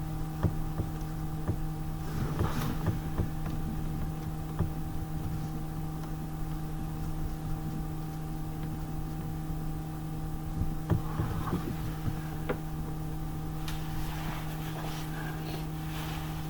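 A steady low hum of unchanging pitch, with scattered light clicks and knocks over it.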